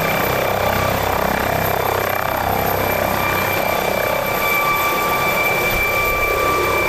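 Aircraft engine running steadily, a dense noise with a steady high whine held through it.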